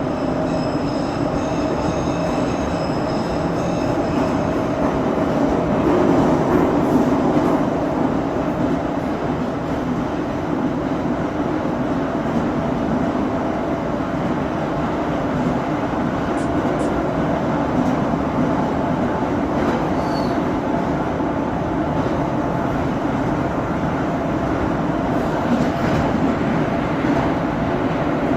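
Moscow Metro 81-717.5M/81-714.5M "Nomernoy" subway train running steadily through the tunnel between stations, a continuous rumble of wheels and running gear with a faint high whine over the first few seconds.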